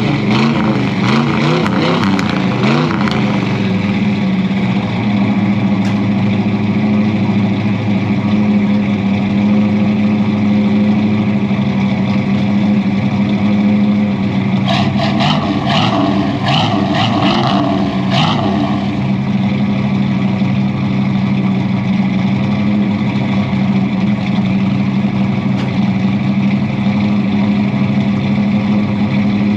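Ford V8 truck engine idling steadily through a newly installed exhaust. There is a brief patch of added higher-pitched noise about halfway through.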